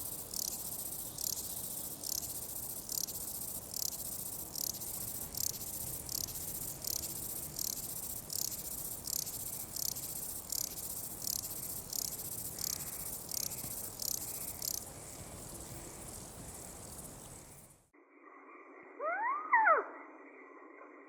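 Night insects, crickets by their sound, chirping in an even pulse of nearly two chirps a second, which fades out over a few seconds. After a cut, a thinner-sounding recording follows with a brief, loud rising call.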